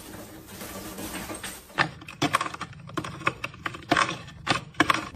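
A run of irregular sharp clicks and taps, a dozen or so, starting about two seconds in over a low background noise.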